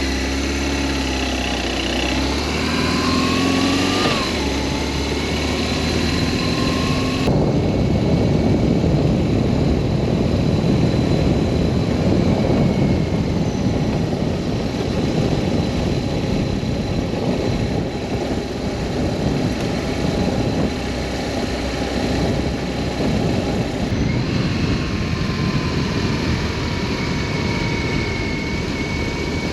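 BMW R1200S boxer-twin motorcycle engine running under way, with wind and road rush. The engine note rises as it accelerates in the first few seconds. About seven seconds in the sound changes abruptly to mostly low wind rush, and it changes again abruptly near the end.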